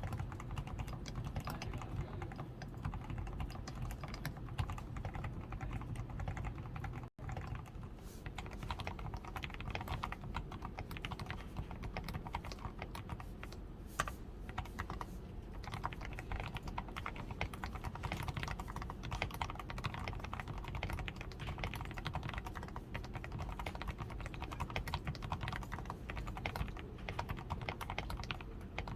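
Continuous typing on a DAREU A87 Pro mechanical keyboard, its switches fully lubed with Krytox 105, with a tape-modded PCB, foam-reinforced switches and XDA keycaps: a dense, unbroken run of key strokes that drops out for an instant about seven seconds in.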